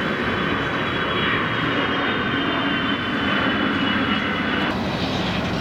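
Steady engine noise of a low-flying jet airliner: a high whine over a low rumble, with the whine cutting out near the end.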